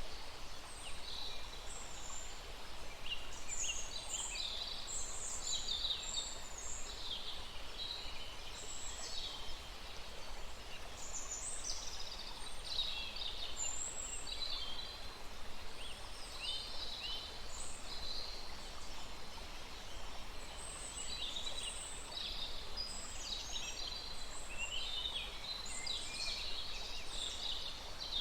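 Several wild birds chirping and trilling continuously in overlapping short phrases, over a faint steady rush of flowing stream water.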